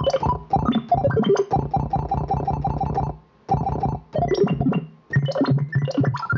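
Omnisphere software synthesizer playing a retro video-game style patch from a keyboard: quick runs of short pitched notes, broken twice by brief pauses.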